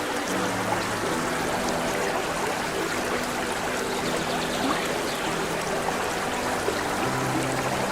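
Running water like a trickling stream, with soft held musical notes underneath that change pitch every second or so.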